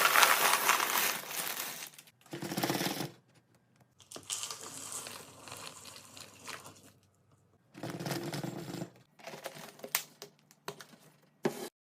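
Packaging rustling and crinkling in several separate bursts: a loud stretch at the start, a fainter run in the middle and short bursts near the end.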